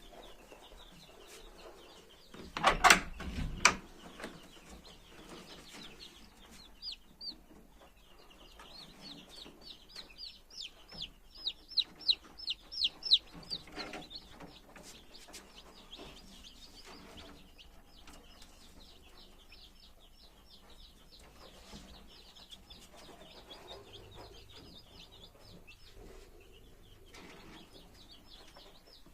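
Newly hatched desi chicks peeping: quick runs of short, high, falling cheeps, growing louder and faster about ten seconds in. A brief burst of loud knocks about three seconds in is the loudest sound.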